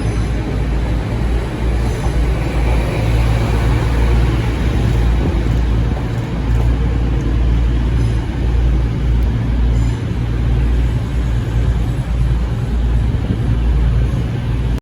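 Train passing close by on the station line: a loud, steady rumble of wheels and running gear.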